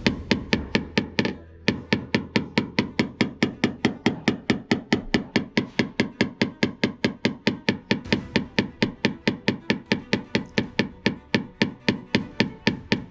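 Rapid, even light hammer taps on a car's sheet-metal panel, about five a second without a break. This is the tap-down stage of paintless dent repair, knocking down high spots with a knockdown tool.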